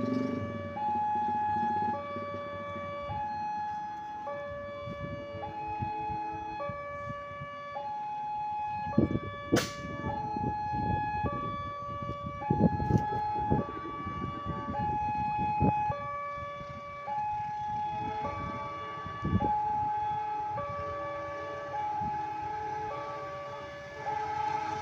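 Railway level-crossing warning alarm sounding a steady electronic two-tone alternation, switching pitch about once a second. Several knocks come partway through, the sharpest a single click.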